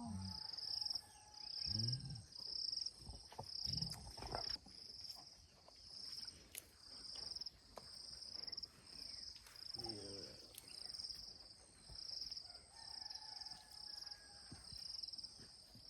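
Cricket chirping in a steady, even rhythm, about two high-pitched chirps a second.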